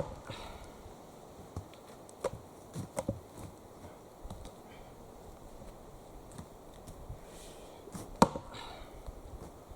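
Axe blows biting into a log being split: a sharp strike at the start, a few lighter knocks two to three seconds in, and another hard strike about eight seconds in.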